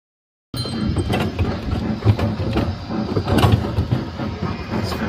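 Rumble and clatter of a train rolling on rails, with many sharp clicks, starting abruptly about half a second in.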